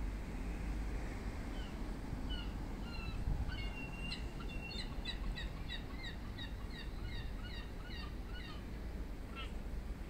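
A bird's thin, high chirps: a few scattered notes, then a quick run of short falling notes around the middle, over a steady low outdoor rumble.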